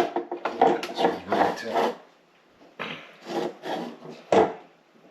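Irregular rubbing and scraping of plastic water-line fittings being pushed in and worked off a refrigerator water inlet valve, in two spells with a short pause between.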